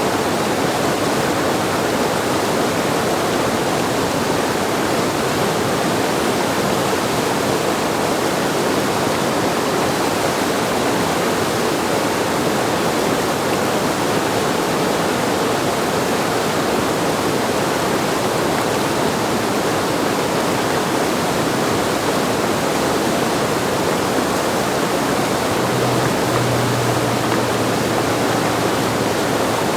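Steady rush of whitewater from a river play wave running at high flow.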